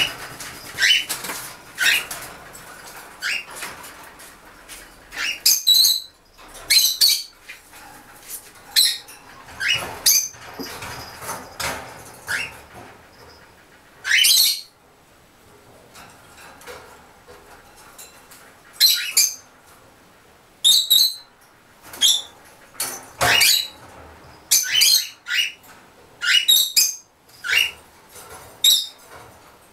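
Pet gray parrots giving short, sharp rising squawks over and over at irregular intervals, with bursts of wing flapping as they fly from the kitten.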